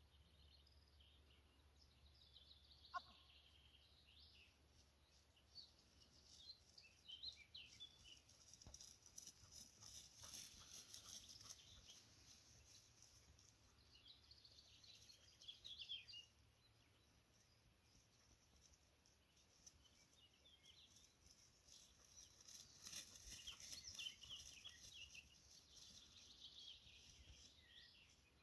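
Near silence, with faint birds chirping on and off in the distance.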